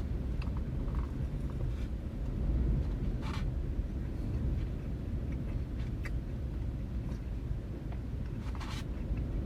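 Steady low rumble of wind, blowing at about 10 to 15 mph, with a few faint short rustles.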